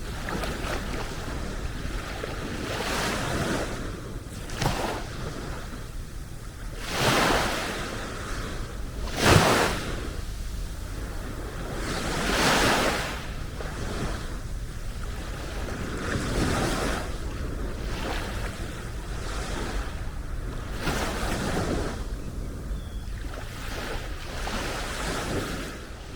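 Sea waves breaking and washing onto the beach, each wash swelling and fading every few seconds, the biggest one about nine seconds in. Wind rumbles on the microphone underneath.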